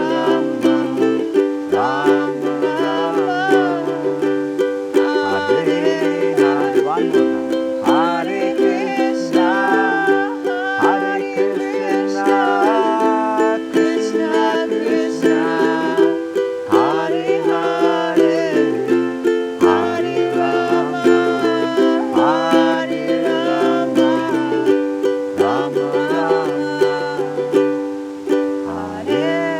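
Ukulele strumming a steady chord progression, the chords changing every couple of seconds, while voices chant a devotional mantra over it in kirtan style.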